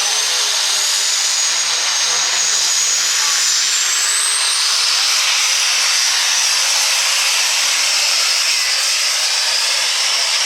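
Super stock diesel 4x4 Chevrolet pulling truck running at full throttle under load on the pull: a loud, steady engine and exhaust noise with a high turbocharger whistle that climbs in pitch over the first few seconds and then holds.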